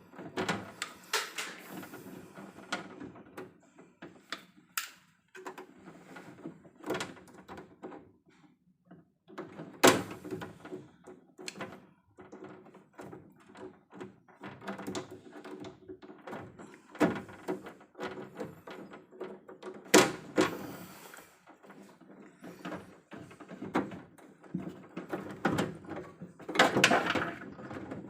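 Irregular knocks, clicks and clatter of hands-on handling work, with sharp knocks about ten and twenty seconds in and a busier stretch near the end.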